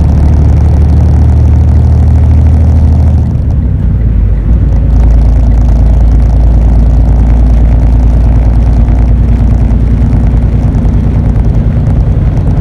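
Semi truck's diesel engine droning steadily in the cab while driving; about three and a half seconds in, the engine note drops lower and then holds steady.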